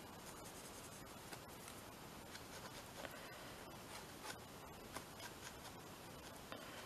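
Faint scratching and a few light taps of an art tool working on paper, over quiet room tone.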